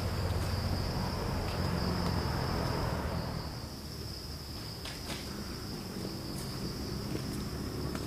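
Forest insects keeping up a steady, high-pitched chirring drone, over a low rumble that fades about three seconds in, with a few faint clicks.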